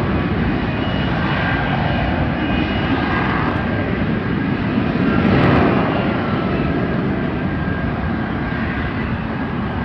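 A passing fixed-wing aircraft, its engine noise swelling to a peak about five and a half seconds in and then easing off.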